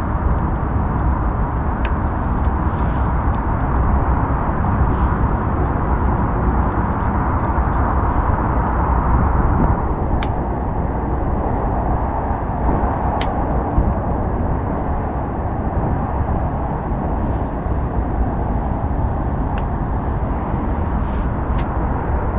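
A handful of sharp, isolated clicks from a lock-picking tool working the lock of an Audi A5 Cabriolet with all keys lost, spread several seconds apart over a loud, steady outdoor background noise.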